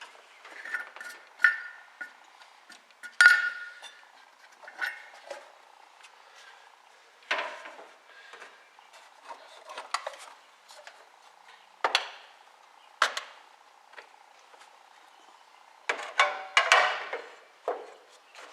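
Scattered metal clanks and clicks of parts being handled at the engine of a 1976 Pontiac Firebird: about a dozen sharp knocks, some ringing briefly. The loudest comes a little after three seconds, and a quick cluster follows near the end.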